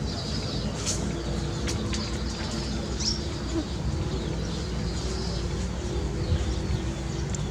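Short bird chirps over a steady low rumble, with a few brief high clicks and chirps scattered through.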